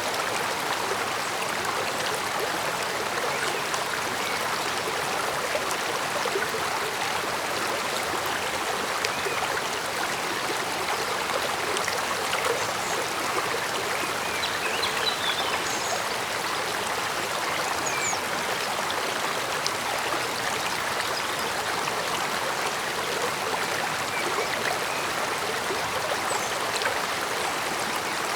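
Stream flowing steadily, an even rushing babble of water with no change in level.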